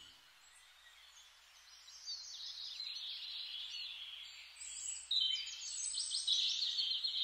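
Small birds chirping and twittering in quick high calls, starting after about a second and a half of near silence and growing louder about five seconds in.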